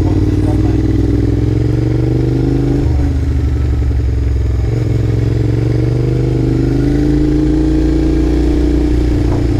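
Honda VTR250's V-twin engine running through a WR'S full exhaust system with carbon silencer while the bike is ridden. The exhaust note climbs with the revs, drops at about three seconds, climbs again and eases off near the end.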